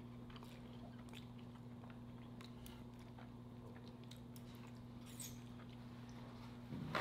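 Faint, scattered chewing and mouth clicks from someone eating, over a steady low hum. A short vocal sound begins right at the end.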